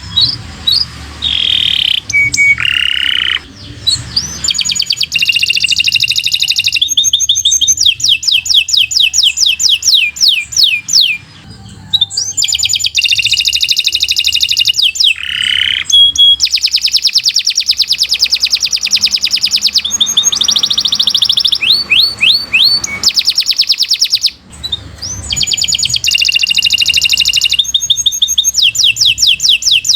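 Domestic canary singing long, loud phrases of fast trills, each a rapid run of repeated notes. There are short breaks between phrases, about four seconds in, near the middle and about two-thirds through.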